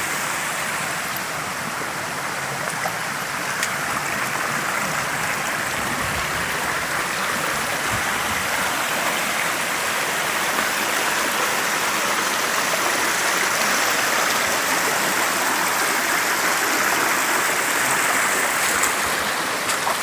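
Creek in flood running fast over rocks: a steady loud rush of water, swelling a little partway through.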